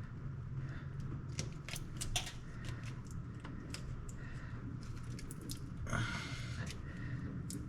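Small irregular clicks and ticks of hand tools on plastic wiring parts, side cutters snipping off a zip tie at a truck's wiring connector, with a short rustle about six seconds in over a low steady hum.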